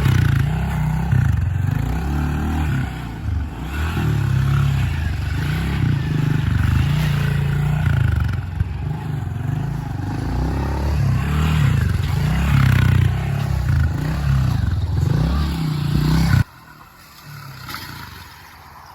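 Dirt bike engine running and revving unevenly as it is ridden, with clattering and scraping. It cuts off abruptly near the end.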